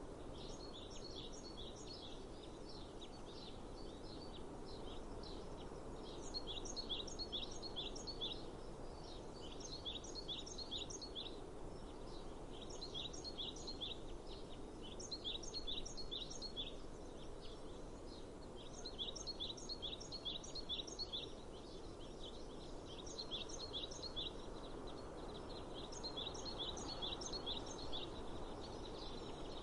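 A songbird singing the same short phrase of quick high notes over and over, with a pause of a second or so between phrases, over a steady low outdoor hiss.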